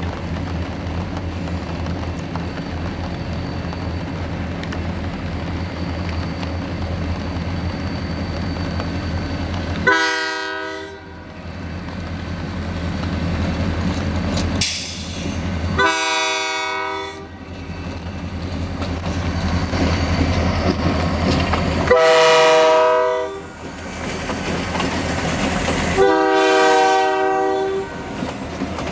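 CN freight train's diesel locomotives rumbling past close by, their horn sounding four separate blasts of one to two seconds each, a chord of several notes. Near the end the tank cars roll past with a clatter of wheels on the rails.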